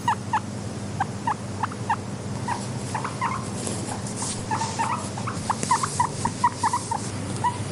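Guinea pigs squeaking in short, quick chirps, several a second, over a steady low hum, with faint rustling partway through.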